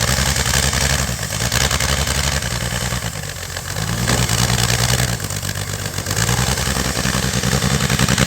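1961 narrow-gauge Bombardier snowmobile's engine running just after a hard cold start, freshly caught after flooding. It runs unevenly, its speed sagging briefly twice and picking back up.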